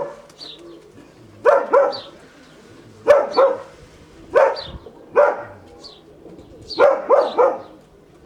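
A dog barking repeatedly: about nine short barks, mostly in pairs and threes, every second or two.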